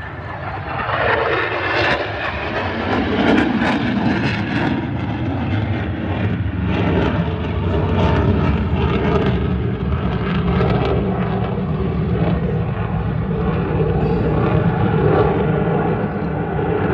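Fixed-wing aircraft engine noise as an airplane flies a display, loud and continuous, with a drop in pitch about two to three seconds in.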